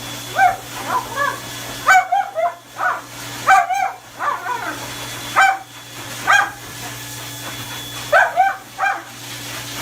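A dog barking in short, high-pitched yips that come in clusters of two or three, repeated through the clip over a steady low hum.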